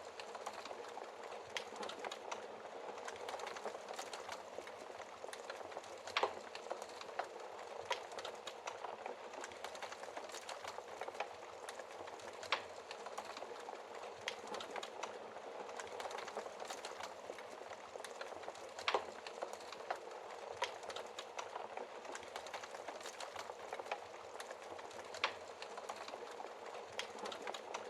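Wood fire burning in a fireplace, crackling steadily with many small crackles and a few louder pops.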